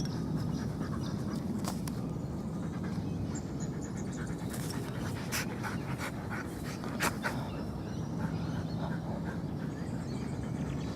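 A dog panting steadily, with a few sharp clicks scattered among it.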